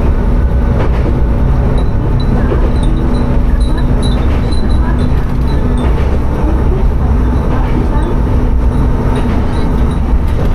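Tsugaru Railway diesel railcar running between stations: a steady engine drone and rumble of wheels on rail. Glass wind chimes hung in the car ring in short high pings every second or so.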